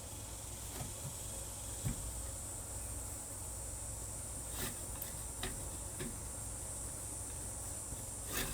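Steady hiss with a few faint knocks and clicks. Near the end, a drill bit starts scraping into a wooden book board in quick repeated strokes.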